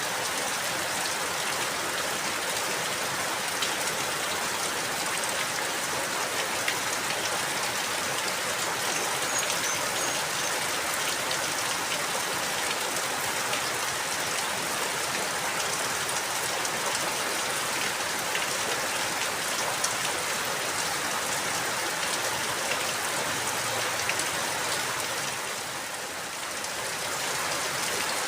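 Steady rain falling on a surface, with many small drop ticks, briefly easing a little near the end.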